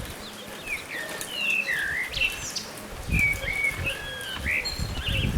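A songbird calling in a quick string of short whistled notes that swoop up and down, over a steady outdoor hiss. Low thumps come about three seconds in and again near the end.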